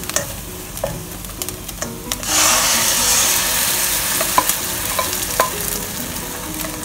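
Chopped preserved radish and garlic sizzling in hot oil in a non-stick wok, with a few light knocks of a spatula. About two seconds in, beaten egg is poured into the hot oil and the sizzling suddenly swells much louder, then slowly eases off.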